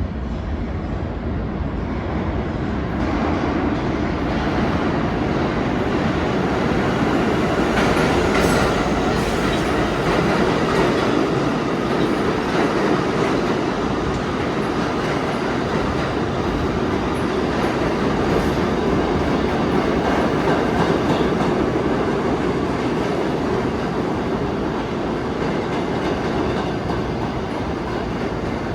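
New York City subway train running through the station: a loud, steady rumble of wheels on rail and traction motors that swells about three seconds in and stays loud.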